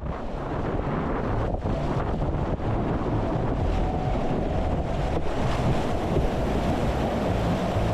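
Rushing whitewater river water with wind buffeting the action-camera microphone, a steady dense rumble and hiss.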